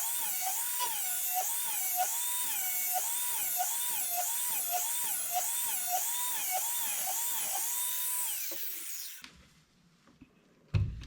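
Electric grinder grinding the cutting edge of a lawn mower blade, its pitch dipping in an even rhythm, about twice a second, as each stroke bites into the steel. It winds down and stops about nine seconds in, and a single knock follows near the end.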